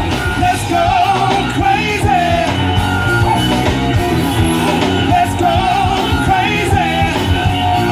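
Live band playing a song with a singer carrying a wavering, sustained melody over the full band.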